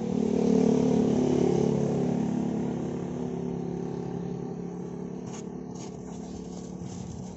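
Samsung single-tub 10 kg washing machine's motor running with a steady hum that slowly fades, with a few light clicks about five to six seconds in.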